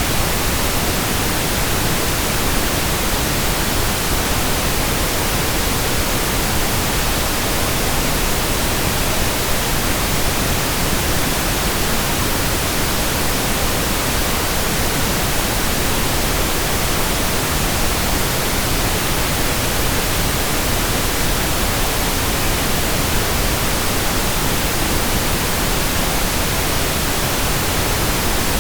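Steady pink noise: an even, unchanging hiss spread across all pitches, generated as a sleep and relaxation sound.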